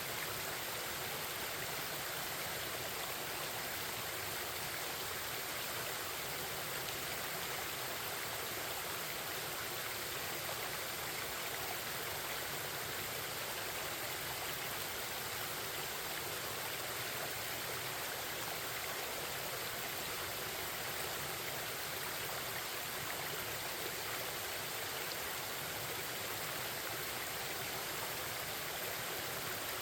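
Forest stream babbling, water flowing over rocks in a steady, unbroken rush.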